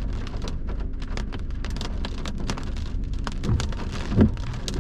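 Heavy thunderstorm rain, many single drops clicking sharply over a steady low rumble. Two dull low thuds come about three and a half and four seconds in, the second one the loudest.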